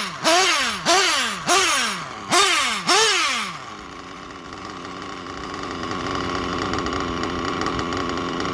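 Small RC nitro engine revving in about six quick throttle blips, roughly two a second, each rising and then falling in pitch, then settling a little over three seconds in to a steady idle. This is a worn, low-compression budget engine clearing itself out after loading up with fuel.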